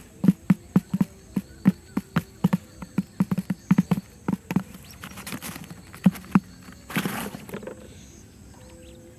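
A run of dull knocks, irregular at about two to three a second, stopping about six seconds in, followed by a short rustling scrape about a second later.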